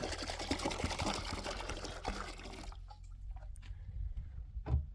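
Water pouring or running, which stops abruptly a little under three seconds in, leaving a low steady hum; a single dull thump near the end.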